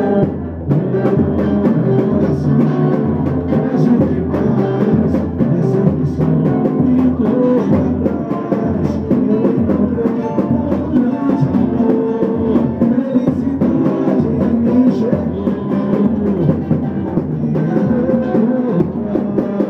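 Samba pagode music played live, with a steady low drum beat under pitched instruments and no clear lead singing.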